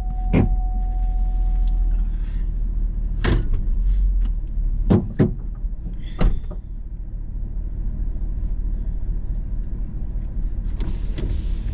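Hummer H2's V8 idling steadily. A short steady chime sounds for the first two seconds, and a handful of sharp clunks come over the next six seconds as a door is opened and shut.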